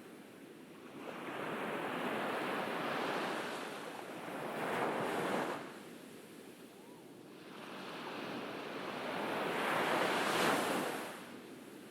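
Ocean waves breaking on a beach: two waves, each building for a few seconds to a peak and then falling away sharply, about five seconds apart.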